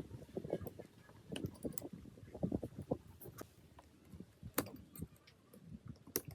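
Irregular light clicks and knocks of tools and metal parts being handled, with a couple of sharper clicks near the end.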